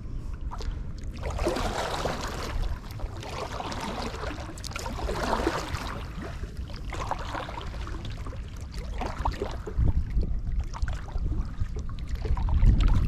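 Kayak paddle strokes splashing through lake water, loudest in the first half. A low wind rumble on the microphone grows toward the end.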